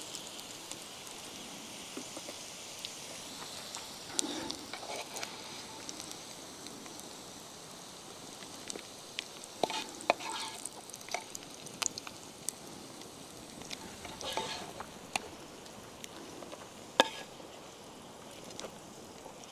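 Fried potatoes sizzling steadily in a pan over a campfire. A utensil scrapes and clinks against the pan as they are turned, in a few short bouts, with one sharp clink near the end.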